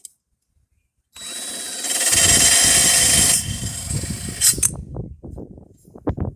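Power drill running a blade-sharpening stone along a lawn mower blade's cutting edge, grinding the edge sharper. The drill starts about a second in, the grinding is loudest for about a second and a half, then it stops and knocking and scraping of the blade and tool follow.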